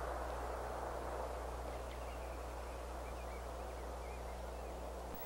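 Quiet outdoor ambience: a steady hiss with a low hum underneath, and faint short bird chirps coming in about two seconds in. A brief click right at the end.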